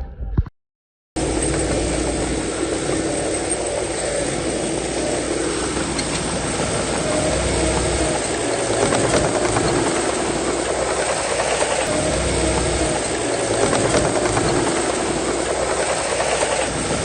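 Heavy diesel earthmoving machinery running steadily under load, a dense hissing, clattering engine-and-track noise. It cuts in about a second in, after a brief silence.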